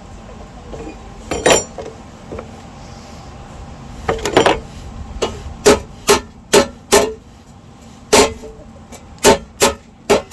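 Hammer blows on sheet steel, each strike ringing briefly. A few scattered blows come first, then a steady run of about two a second in the second half.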